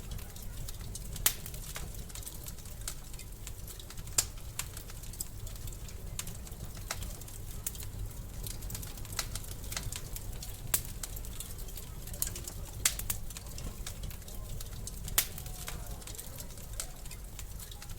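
Wood fire crackling in a fireplace: a steady low rumble with many small crackles and a sharp pop every two to four seconds.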